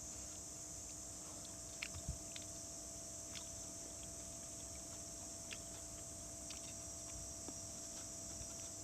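Quiet outdoor ambience: a steady high hiss with scattered faint clicks and ticks, a small cluster of them about two seconds in.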